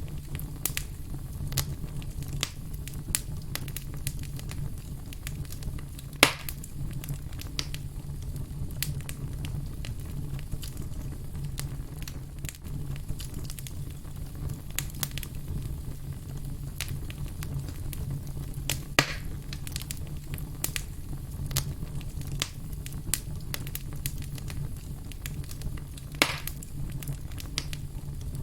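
Wood campfire crackling with many small snaps over a low steady rumble. Three louder pops come about six, nineteen and twenty-six seconds in.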